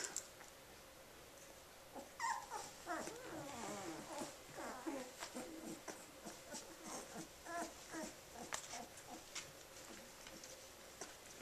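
Young Australian Shepherd puppies, about 18 days old, whimpering and squealing in short wavering cries, strongest from about two seconds in, then trailing off into scattered small squeaks and rustling.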